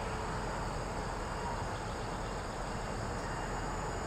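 Steady hiss from a radio receiver with a faint steady hum, an open channel between railroad radio transmissions.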